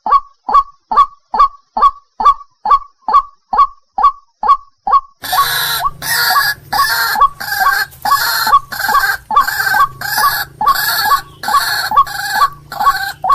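White-breasted waterhen (ruak-ruak) calls played as a bird-luring track: one short call repeated evenly, about two to three a second. About five seconds in it switches to a noisier recording, with a steady hiss and low hum behind the same repeated calls.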